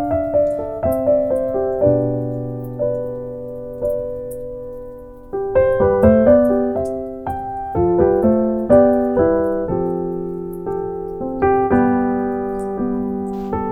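Background piano music: a slow melody of single struck notes and chords, each ringing out and fading.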